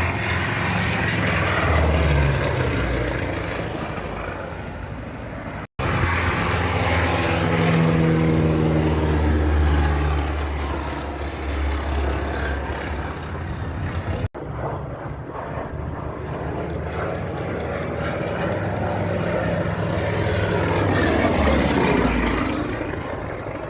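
Fokker D.XXI's piston engine and propeller passing by in flight, the engine pitch falling as the plane goes past. The sound breaks off abruptly twice.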